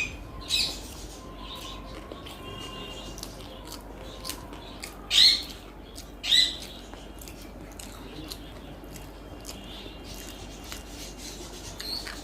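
Mouth sounds of a person eating: wet chewing and smacking, with three louder wet smacks (just after the start, about five seconds in, and a second later) among small clicks.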